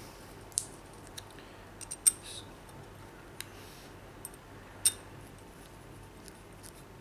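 Small sharp clicks and ticks of a screw and screwdriver being worked into a CPU water-cooling block, a handful spread out with pauses between.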